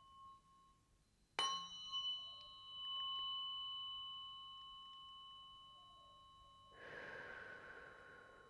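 A tuning fork struck about a second and a half in, with a sharp attack, then ringing on a few clear steady tones that slowly fade. Near the end a soft breathy exhale.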